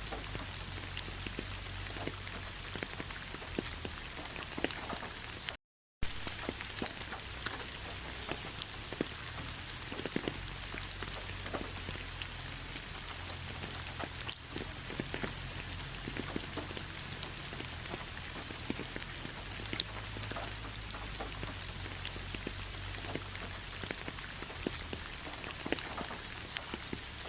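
Steady autumn rain falling on a bed of fallen leaves: an even hiss with many small, irregular pattering drop ticks. The sound cuts out completely for about half a second about six seconds in.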